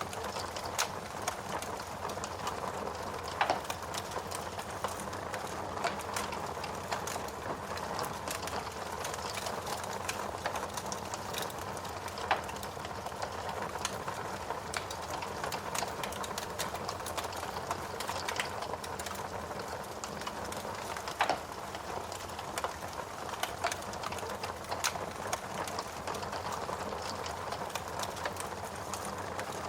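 Wood fire burning in a fireplace: a steady low rush of flame with irregular crackling, and a few louder pops from the burning logs.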